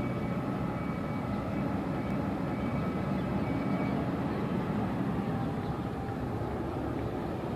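Steady low rumble without distinct strokes or impacts, like a running engine, with faint thin high tones above it.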